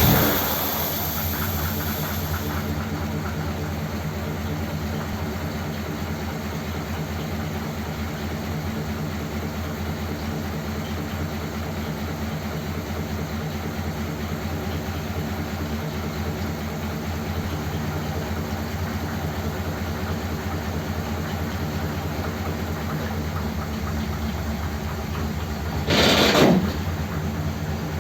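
1957 Ford Thunderbird's V8 running just after being started, settling into a steady idle. A brief louder, harsher burst comes near the end.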